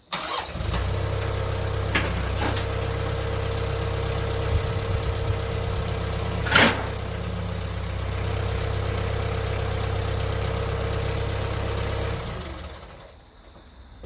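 Tractor engine catching and idling steadily for about twelve seconds, with one sharp knock midway, then shut off and winding down.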